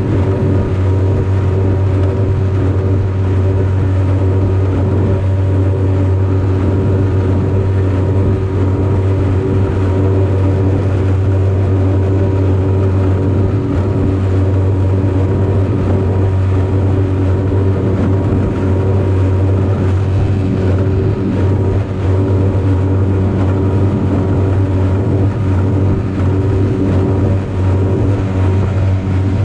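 5 hp Yamaha two-stroke outboard motor running steadily at full throttle, pushing a small aluminium boat: an even, unbroken drone.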